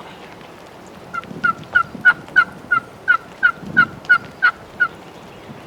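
A run of about twelve turkey yelps, evenly spaced at roughly three a second. The run starts about a second in and ends near the end.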